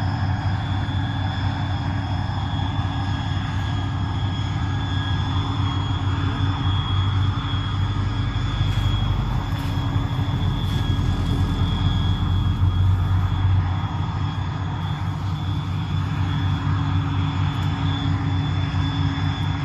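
A steady, even engine or motor drone with several constant pitches held throughout.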